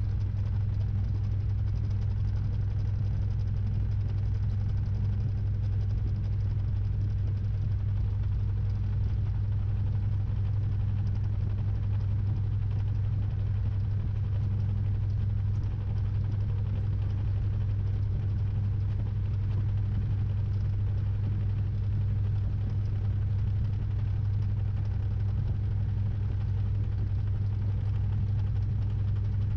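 Samsung 6.5 kg top-load washing machine running steadily in its spin, a constant low hum heard from inside the drum.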